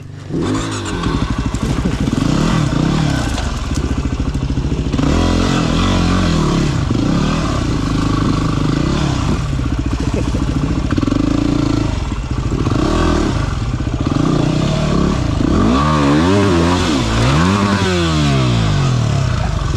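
Single-cylinder dirt bike engine revving up and down over and over, its pitch rising and falling in repeated swoops, with some clattering. It is an unintended "whiskey throttle": the rider's boot is stuck on the bike while the throttle is held open.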